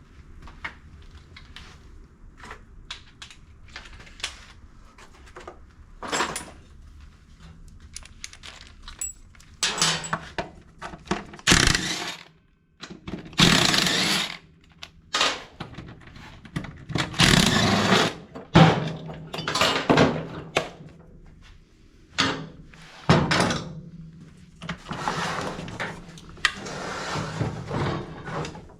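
Workshop clatter from hand work on a push mower: small clinks and knocks of tools and metal parts, then several louder rattling, scraping bursts about a second long through the second half.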